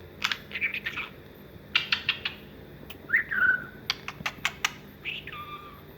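Pet budgerigar chattering between its talking phrases: bursts of rapid sharp clicks, with a short falling whistle about three seconds in and a brief whistled note near the end.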